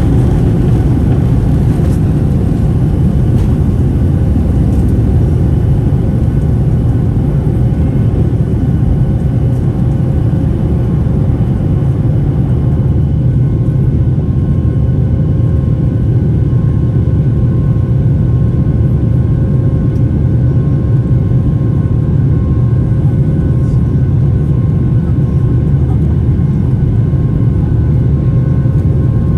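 Steady roar of a Boeing 737-800's CFM56-7B jet engines and rushing air, heard inside the passenger cabin. A thin steady whine joins the roar about halfway through.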